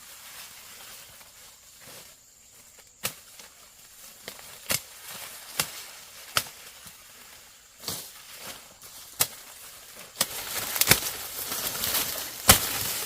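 Corn stalks being harvested by hand: sharp snaps or chops about once a second. A dense rustle of dry leaves joins them for the last few seconds.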